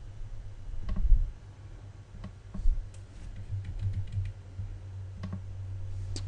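A few isolated clicks at a computer, spaced a second or so apart, over a low steady hum.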